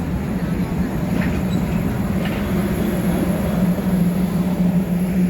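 Train running with a steady low drone over a rumble, most likely the diesel locomotive of the Canadian Pacific Holiday Train.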